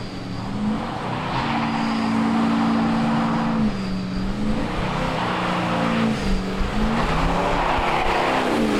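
Car engine running loud, its pitch holding for a second or two and then stepping up or down several times, with a wash of road and tyre noise over it.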